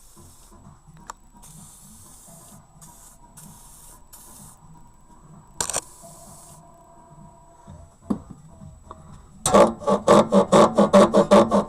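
Upper control arm rubber bushings (silent blocks) squeaking, with about 60,000 km on them. Faint creaks and a couple of knocks give way, about nine and a half seconds in, to loud rhythmic squeaks about four or five a second.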